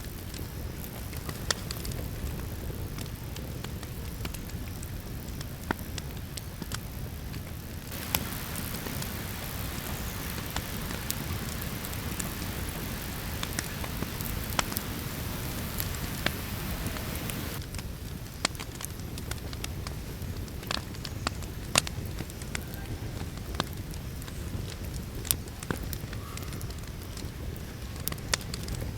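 Campfire crackling: scattered sharp pops and snaps over a steady low rumble. From about eight seconds in to about seventeen seconds a brighter hiss joins in, then stops abruptly.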